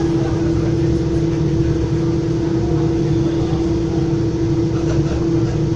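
Interior of a Metra commuter train car: a steady low rumble with a constant droning hum.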